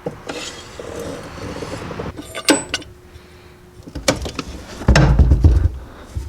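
Rustling and a few sharp knocks from handling things in a car trunk, then a loud, heavy low thump about five seconds in, as the spare tire is pulled out of the well.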